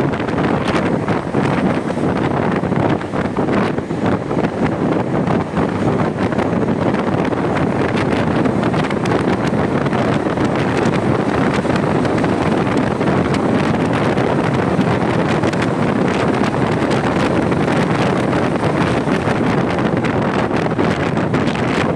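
Loud, steady wind noise buffeting the microphone of a camera on a moving motorcycle, drowning out the engine and other sounds.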